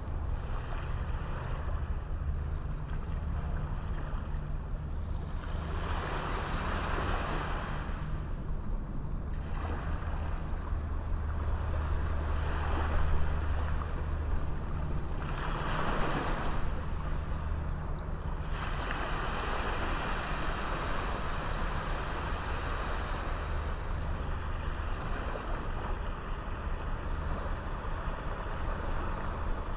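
Sea waves breaking and washing up the shore: a steady low rumble under a hissing wash that swells three times in the first half, then settles into an even wash.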